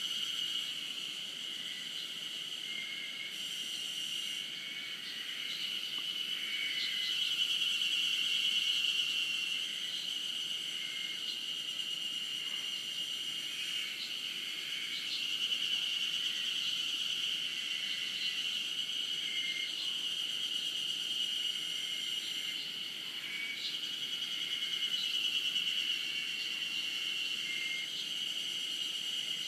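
Chorus of Japanese spring cicadas (harusemi, Terpnosia vacua) and other cicadas, a continuous high-pitched droning that swells and eases every several seconds.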